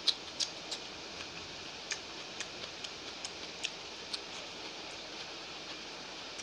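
Close-up eating sounds: a sharp crunch as a slice of raw onion is bitten, then irregular small crisp clicks of chewing and mouth sounds, over a steady hiss.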